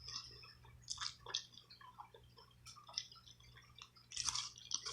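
Faint wet chewing and lip smacks of a person eating a sushi roll, with scattered short soft clicks and a slightly louder noisy burst about four seconds in.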